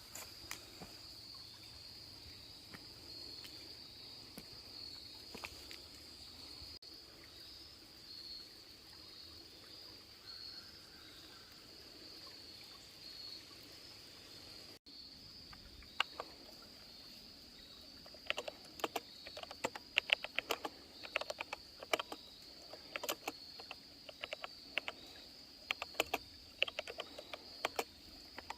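Steady high-pitched drone of insects. In the last third, rapid irregular clicking of typing on a keyboard, the Freewrite Alpha's keys.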